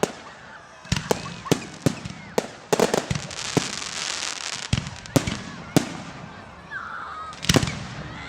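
Fireworks display: about a dozen sharp bangs of exploding shells at irregular intervals, with a dense crackle in the middle of the stretch.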